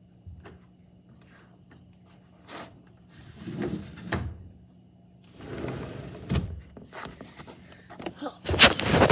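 A run of irregular knocks, scuffs and clatters, typical of a door and things being handled, growing louder with two sharp knocks near the end.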